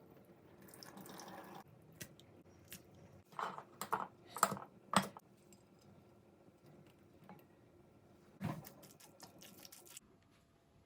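Quiet kitchen handling sounds: a handful of light knocks and clicks about three and a half to five seconds in, and another short cluster about eight and a half seconds in.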